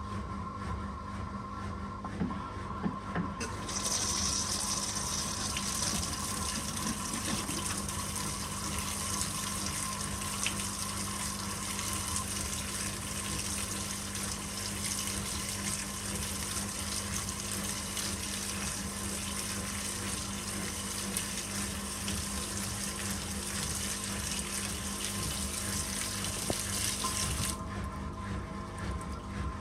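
Simpson 8.5 kg washing machine taking in water: a steady rush of incoming water starts a few seconds in and cuts off suddenly near the end, over a steady low hum from the machine.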